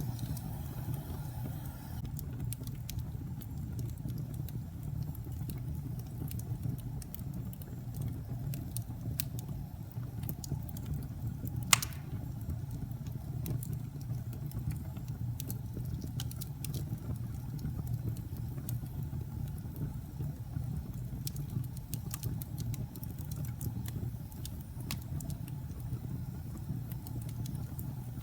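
Wood fire burning in a fireplace: a steady low rumble of flame with scattered small crackles, and one loud, sharp pop a little before halfway through.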